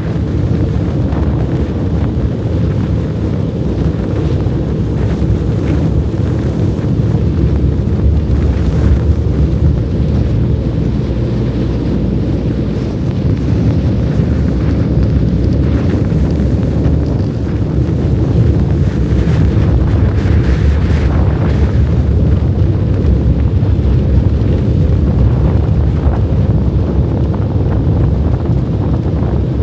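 Strong blizzard wind blowing and buffeting the microphone: a loud, dense, steady low noise.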